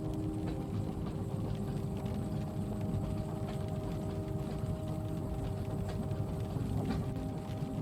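Steady low rumble of a moving train carriage with a constant hum, and faint light ticks of rain on the window over it.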